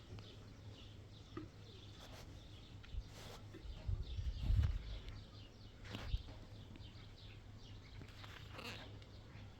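Small birds chirping over and over, with a few light knocks and a brief low rumble about halfway through.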